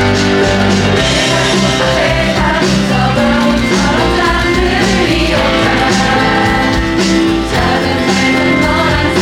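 A theatre audience singing a song together in chorus over its recorded instrumental accompaniment, which plays through the hall's sound system.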